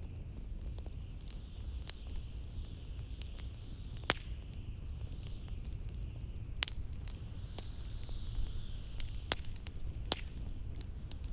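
Wood fire crackling, with sharp pops at irregular intervals, over a steady low rumble of blizzard wind and a faint high hiss that swells and fades.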